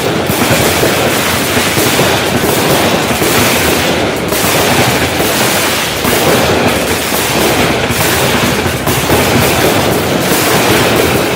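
Black Cat 'Wild Wild West' consumer firework going off: a continuous dense stream of rapid pops and crackles that holds at a steady loud level.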